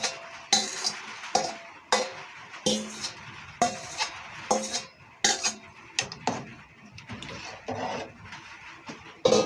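A metal spoon clinking and scraping against a metal cooking pot, about one clink a second, each followed by a short ring from the pot. The clinks are softer in the second half, with one louder knock near the end.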